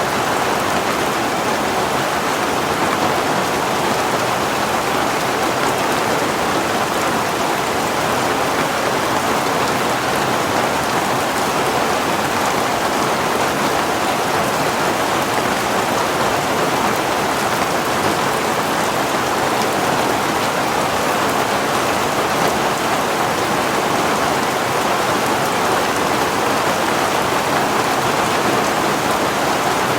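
Heavy rain falling steadily, an even unbroken hiss of rain.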